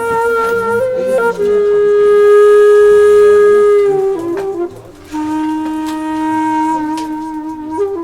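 Background music: a wind instrument playing a slow melody of long held notes that step lower, with a short break about four seconds in.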